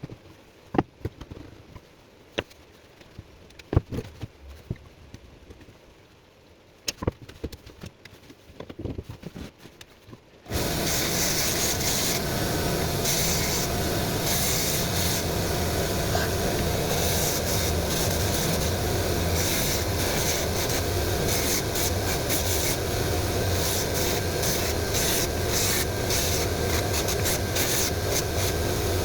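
A few scattered clicks and scrapes of tools on wood, then, about ten seconds in, a power tool starts suddenly and runs steadily on the wood slice, cleaning up its edge.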